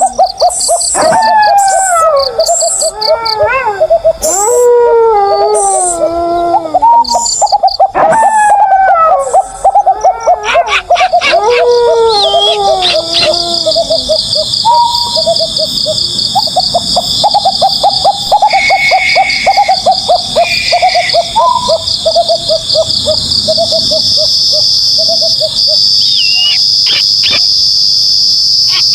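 Owl calls: repeated series of descending, quavering notes, then a long rapid trill that slowly falls in pitch. From about halfway through, a steady high-pitched chorus of crickets sounds behind them.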